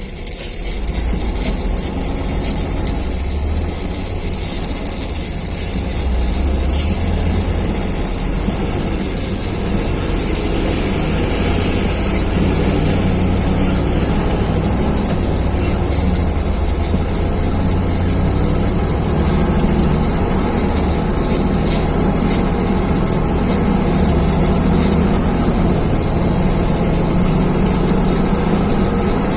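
Heavy vehicle engine running steadily at low revs, a continuous low rumble that swells slightly a second in and again around six seconds in.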